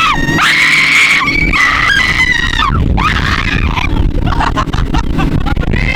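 Young people screaming on a speedboat ride: long high screams in the first two seconds, then shorter cries over a steady low rushing rumble of engine and wind.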